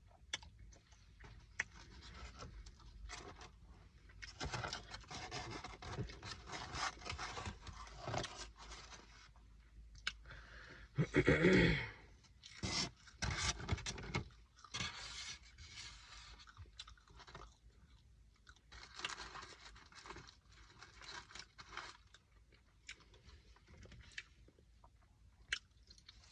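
A person chewing and crunching food in irregular bursts, with one louder noise of about a second near the middle.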